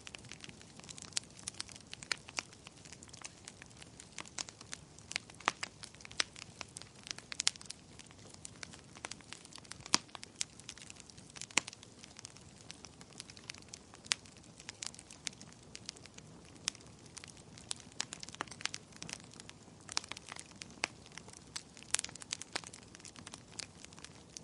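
Wood fire crackling: frequent sharp, irregular pops and snaps over a faint low hiss of burning.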